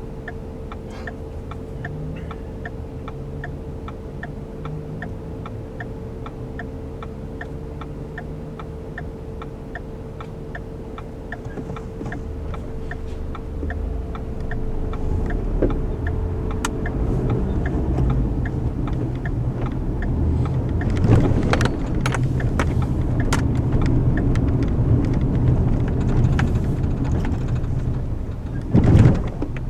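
A car's turn-signal indicator clicking at about three clicks every two seconds over a quiet idling car. The clicking stops about sixteen seconds in and engine and tyre noise rises as the car drives off, with a short loud thump near the end.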